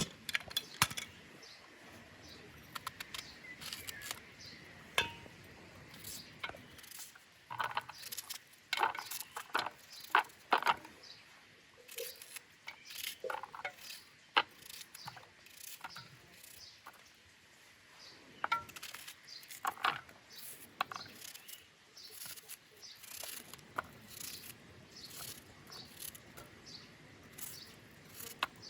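Irregular series of sharp clicks, knocks and light metallic clinks, with two louder knocks about a second in and about halfway through.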